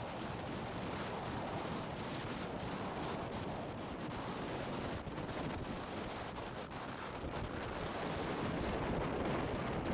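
Strong wind buffeting the microphone: a steady rumble broken by many short thumps as the gusts hit.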